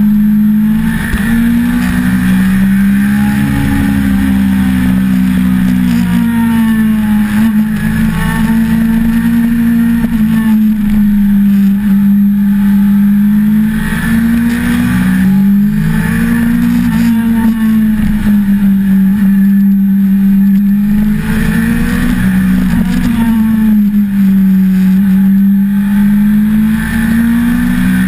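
1988 Suzuki GSXR750J's oil-cooled inline-four engine under way, heard from on board the bike, its note rising and falling gently every few seconds as the throttle is rolled on and off through the bends, over steady wind rush.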